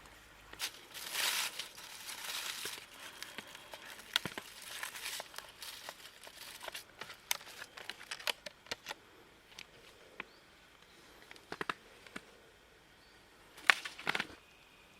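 Crinkling and rustling, as of a wrapper or bag being handled, with scattered sharp clicks. The busiest rustling comes about a second in, and a few sharp clicks come near the end.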